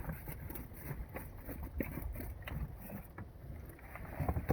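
Low wind rumble on the microphone on a small fishing boat, with scattered light knocks and clicks from handling the net and catch.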